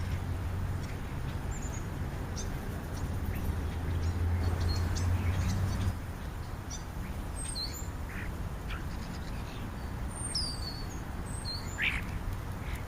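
European starlings calling: scattered short chirps, clicks and whistles, with a few louder squeaky whistles near the end. A low steady rumble underneath stops about six seconds in.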